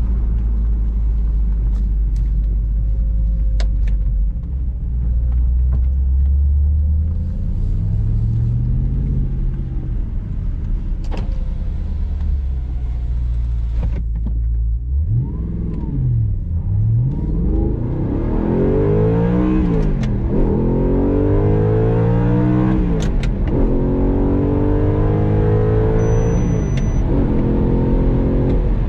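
The mid-mounted 4.2-litre V8 of a 2011 Audi R8 V8 Spyder, heard from inside the cabin. It runs low and steady at first, then accelerates hard through the gears of its gated six-speed manual. The pitch climbs in each gear and drops at every upshift, several times in the second half.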